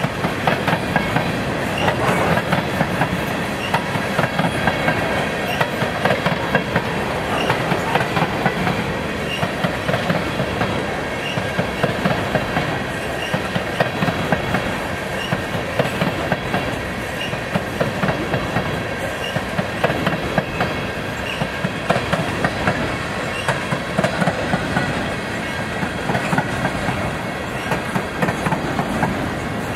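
Empty coal hopper cars rolling past on a freight train, their wheels clacking over the rail joints in repeated clusters of clicks over a steady rumble.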